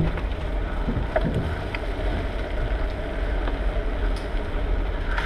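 Wind rumbling on the microphone of a moving bicycle, with road noise and a few light clicks and rattles from the bike.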